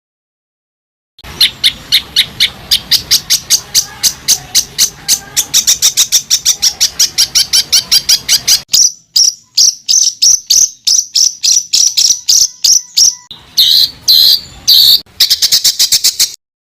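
Songbird singing a rapid-fire run of sharp, high repeated notes, about five a second, then slower spaced notes and a few longer ones before another quick run that cuts off suddenly. This is the 'tembakan rapat' (close-packed shot) phrasing that bird keepers use as masteran to tutor competition songbirds.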